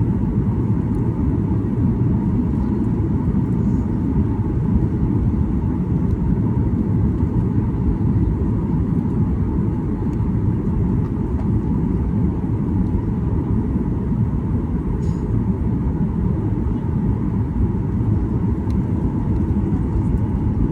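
Steady low rumble of a Boeing 737-800 airliner with its CFM56 turbofan engines running, heard during the approach, with a faint steady hum above it.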